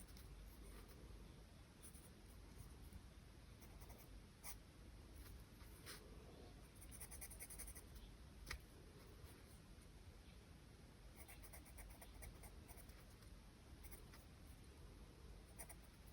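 Faint scratching of charcoal on paper: scattered short strokes and ticks, with quick runs of rapid strokes about seven seconds in and again around eleven to twelve seconds, and a sharper tap about eight and a half seconds in.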